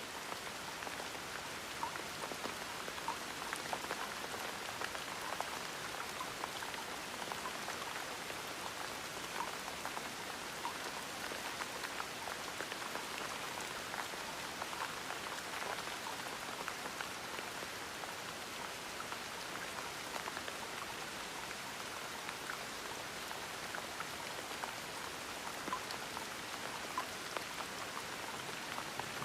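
Steady gentle rain with a light patter of individual drops.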